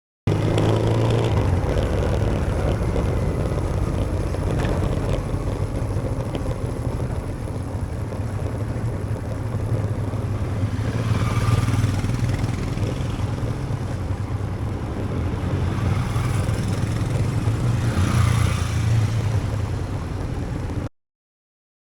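Honda Transalp XL650V's V-twin engine running steadily under way, with wind noise over it. The sound cuts off sharply near the end.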